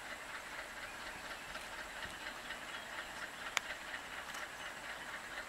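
Passenger train hauled by twin ALCO WDM-3A diesel locomotives, running along the track, heard as an even, hiss-like noise. A single sharp click comes about three and a half seconds in.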